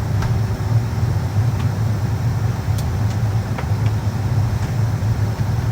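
Steady low hum inside the cabin of a Boeing 757 before departure, with a few faint clicks.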